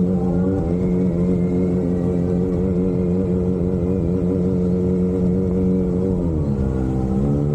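Kawasaki Ninja ZX-25RR's 249 cc inline-four running through an Austinracing aftermarket exhaust at a steady, fairly high engine speed. The pitch drops about six seconds in, then holds at the lower note.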